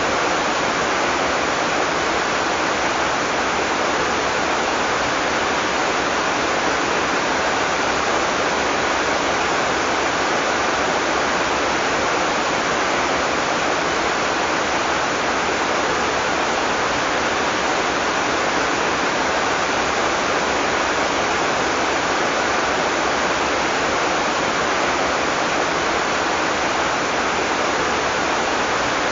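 Heavy rain falling steadily, a dense even hiss with no let-up and no thunder.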